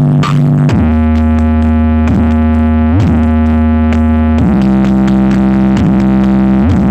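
Electronic dance music played loud through a large sound-system rig of stacked subwoofers: deep held bass notes with a swooping sweep every second or so. The bass note changes about four and a half seconds in.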